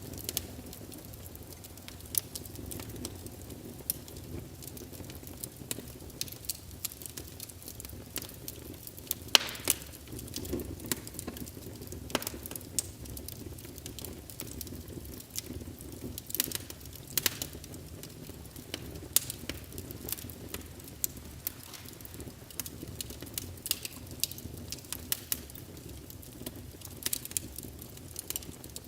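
Small wood fire in a fireplace crackling, with irregular sharp pops and snaps over a low steady rumble; one louder pop about nine seconds in.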